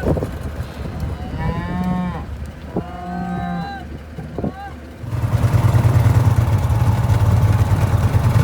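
Cattle mooing, two drawn-out moos. About five seconds in, a loud, steady, low engine hum starts and runs on.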